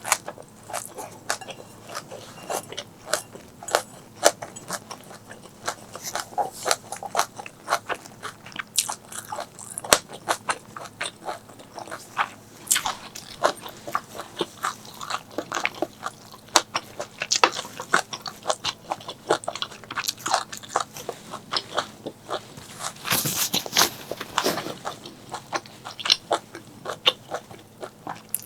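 A person chewing and crunching food close to the microphone: a dense, irregular run of quick crunchy clicks, busiest about four-fifths of the way through.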